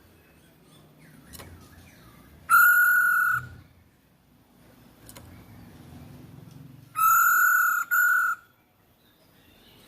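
Masked laughingthrush (Hong Kong poksay) calling: two loud, level whistled notes about four seconds apart. The first lasts about a second; the second is longer and breaks briefly near its end. Faint chirps are heard between them.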